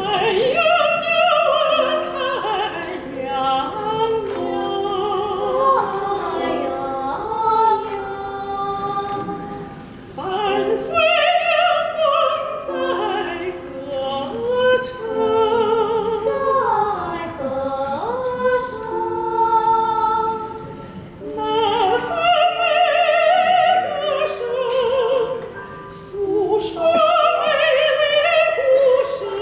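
Soprano singing in an operatic style with strong vibrato, over piano accompaniment.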